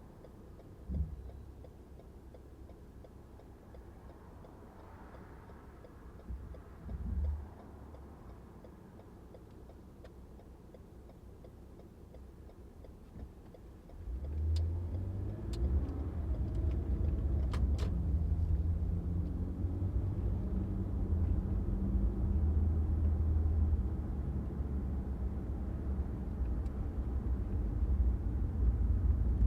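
Low engine and road rumble from a car, fairly quiet in the first half apart from two short low thumps, then coming up sharply about halfway through and staying loud and steady.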